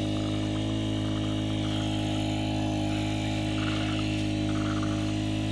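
Small petrol-engined water pump running steadily at constant throttle, a continuous even hum with a stack of steady tones, feeding the sluice.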